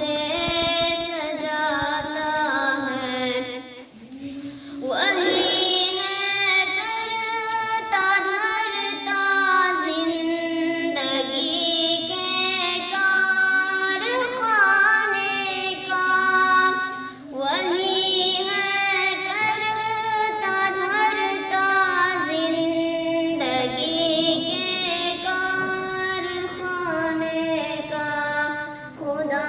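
A solo voice singing a hamd, an Urdu devotional hymn in praise of God, in long wavering, ornamented phrases. There are brief breaks between lines about four and seventeen seconds in.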